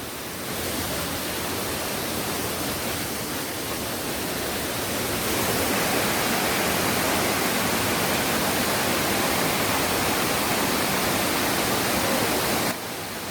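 Kothapalli waterfall's falling water rushing in a steady wash of noise. It gets louder about five seconds in and drops abruptly shortly before the end.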